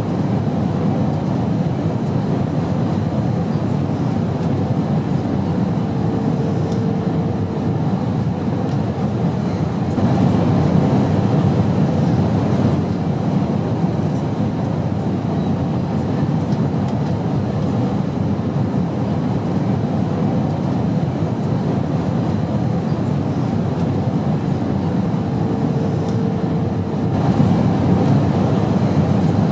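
Steady airplane cabin noise in flight: an even low rumble that swells slightly about ten seconds in and again near the end.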